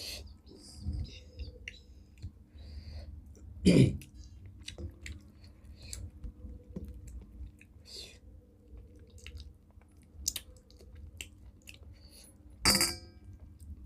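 Close-up chewing and mouth sounds of people eating rice and fish curry, with small wet clicks and smacks. There are two louder knocks, about four seconds in and near the end, the second with a brief ring.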